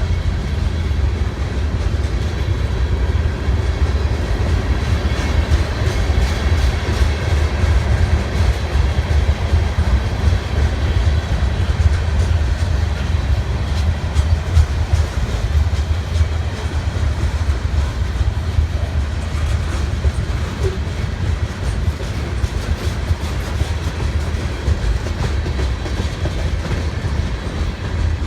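Freight train rolling past, a steady low rumble with the clickety-clack of wheels over the rail joints.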